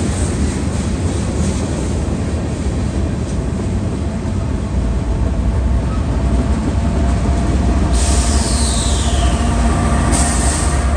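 Norfolk Southern freight train rolling past: a steady low rumble of freight cars on the rails. Near the end the diesel engine hum of the mid-train DPU locomotive joins it, and a high squeal falls in pitch about eight seconds in.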